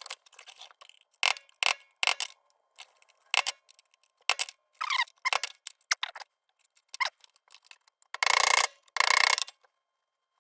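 Sheet-metal parts of an Embury Air Pilot lantern clinking and tapping as they are handled and fitted together, with a faint ring after some of the taps. Near the end come two longer, louder metal scrapes about a second apart, as the crown is worked into place.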